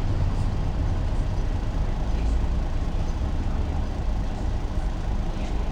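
Ikarus 280 articulated city bus's diesel engine running with a steady low rumble.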